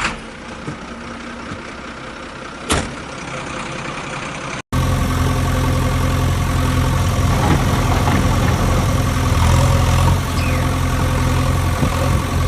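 A quiet stretch with a single sharp click, then after an abrupt cut about five seconds in, an engine idling steadily and loudly.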